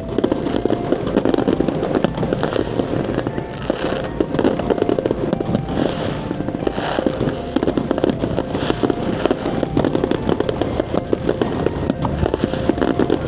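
Fireworks crackling and popping in a dense, rapid stream of sharp cracks, with music playing alongside.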